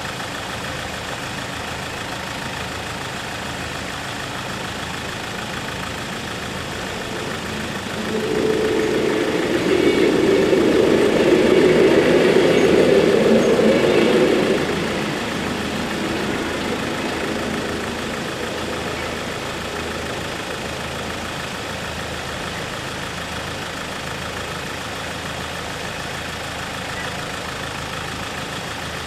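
Level crossing bells ringing steadily while an NMBS MS66 classic electric multiple unit runs over the crossing. The train is loudest from about 8 to 15 seconds in, then fades away.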